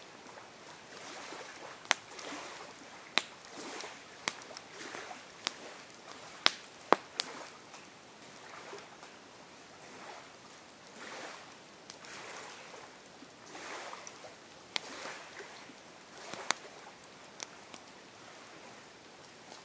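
Campfire crackling: irregular sharp pops and snaps of burning wood over a soft hiss of flames that swells and fades. The loudest pops come about seven seconds in.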